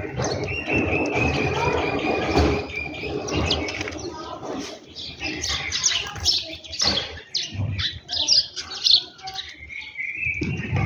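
Birds chirping, a rapid run of many short high calls. A long, steady high note sounds in the first few seconds and another near the end.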